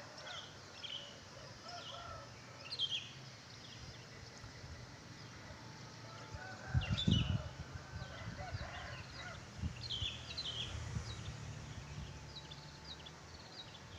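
Wild songbirds chirping in short, high calls, one after another, including a sooty-headed bulbul (kutilang). There is a brief low rumble about halfway through.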